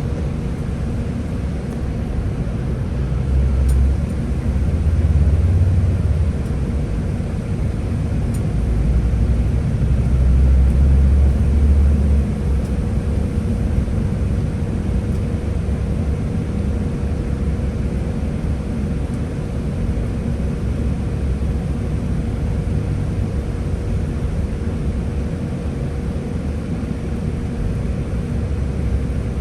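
Scania-powered Higer A30 city bus running with a continuous low engine rumble that swells twice, about three seconds in and again around nine to twelve seconds, over a faint steady whine.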